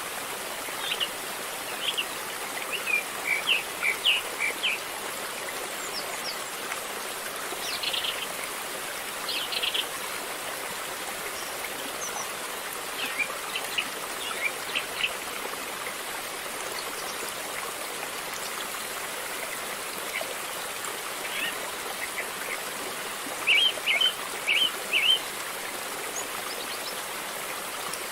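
River water flowing with a steady rush. A bird chirps over it in short clusters of quick notes, four times, loudest near the end.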